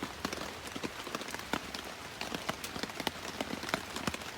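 Light rain falling, with individual raindrops striking a surface as scattered, irregular sharp ticks, several a second, over a steady hiss.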